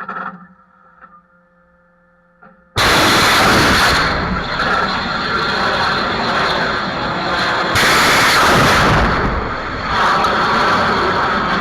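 Kalibr cruise missile launch: after a faint hum, a sudden loud rocket roar bursts in about three seconds in and keeps going, with a fresh surge about eight seconds in.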